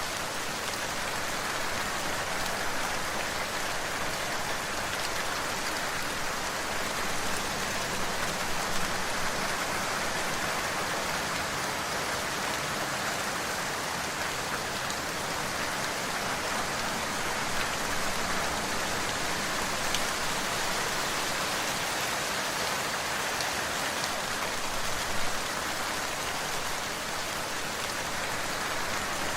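Steady rain falling on a surface, with a dense even hiss and scattered individual drops.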